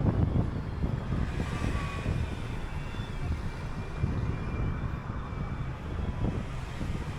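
City bus running along the road: a steady engine and road rumble, with a faint high whine for a couple of seconds about a second in.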